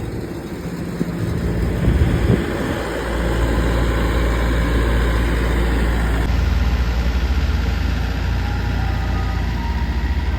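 Ice cream truck's engine running with a steady low rumble that grows louder about three seconds in.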